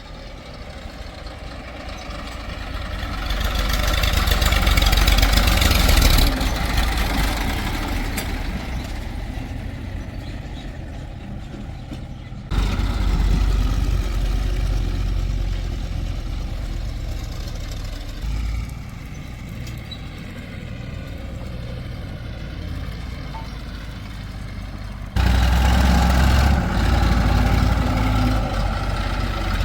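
Diesel engines of a JCB 3DX backhoe loader and farm tractors working under load, the revs rising for a few seconds near the start. The sound jumps abruptly in level twice, as the scene changes.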